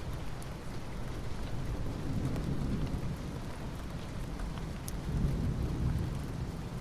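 Soft rain falling on asphalt: a steady hiss of rain with a few individual drop ticks, over a low rumble underneath.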